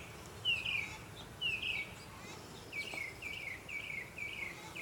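Songbird singing: a series of short down-slurred whistled notes about once a second, quickening into a faster run of the same notes about three seconds in.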